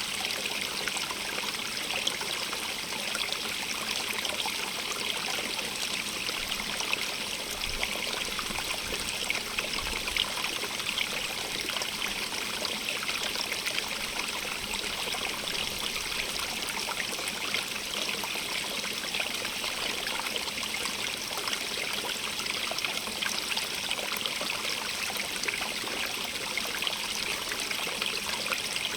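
Running water of a stream, a steady, unbroken rush with more hiss than rumble.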